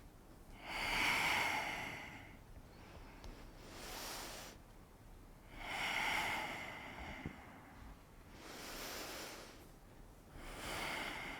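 Slow, deep breathing close to the microphone, paced with the yoga movement: audible breaths swell and fade about every two seconds, alternating in and out, five in all. The fuller, stronger swells come about a second in, around six seconds in and near the end.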